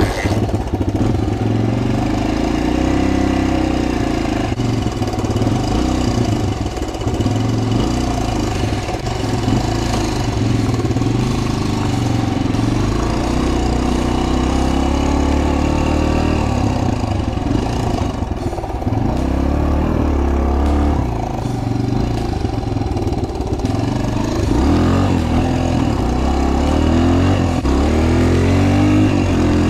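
2003 Suzuki DR-Z125L pit bike's small four-stroke single-cylinder engine, ridden hard, revving up and down over and over as it accelerates and backs off.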